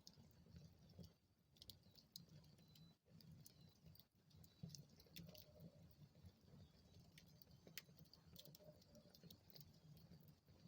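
Wood fire in a fireplace crackling faintly: scattered sharp pops and snaps over a soft, low rumble of the burning logs.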